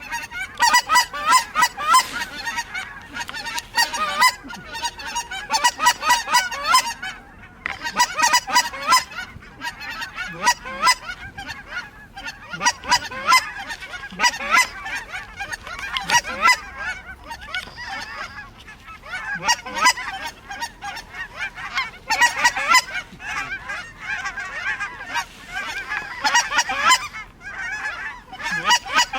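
A large flock of snow geese calling continuously, many overlapping high honks and yelps.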